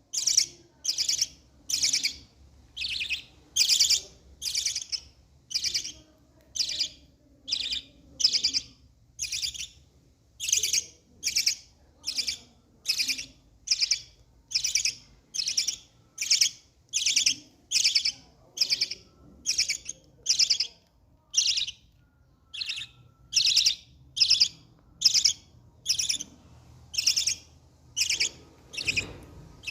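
A baby parrot's food-begging calls: short, high calls repeated over and over, a little more than one a second.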